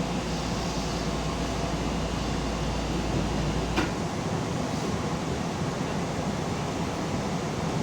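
Steady hum and rumble inside a Keihan commuter train car, with one sharp click a little under four seconds in, when the deepest part of the hum drops away.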